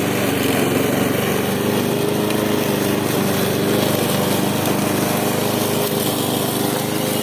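Small engine of a grass-cutting machine running steadily at constant speed.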